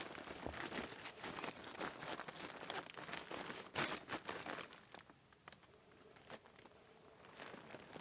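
Close crinkling and rustling of something being handled, dense for about five seconds with a louder crackle near the middle, then dying down to a few faint ticks.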